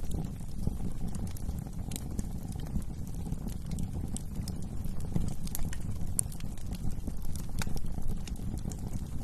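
Wood fire crackling: a steady low rumble of burning with scattered sharp pops and snaps, one of the sharpest about six seconds in.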